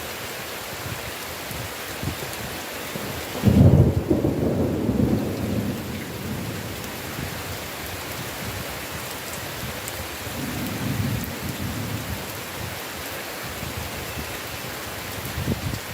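Steady heavy rain hissing, with a loud clap of thunder about three and a half seconds in that rumbles away over a couple of seconds. A softer roll of thunder comes around ten seconds in, and another starts near the end.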